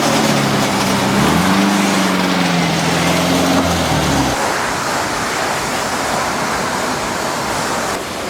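Loud, steady rush of spraying water at a car wash, with a motor hum that rises about a second in and cuts off suddenly about four seconds in.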